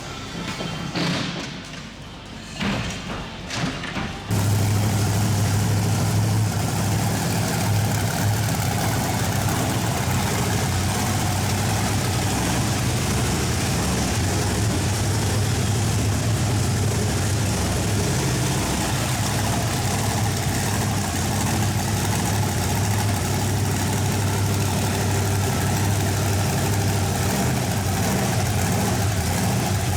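A large vehicle engine idling steadily, cutting in abruptly about four seconds in with a deep, even hum; before it, choppy background music.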